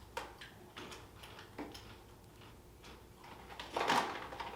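Crisp, hollow blueberry wafer sticks crunching as they are bitten and handled: scattered small crackles, with a louder crackle about four seconds in.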